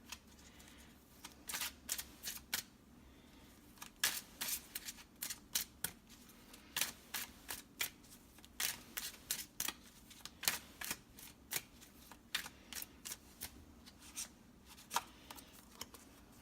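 Tarot deck being shuffled by hand: a long run of irregular, crisp card slaps and flicks, about one or two a second.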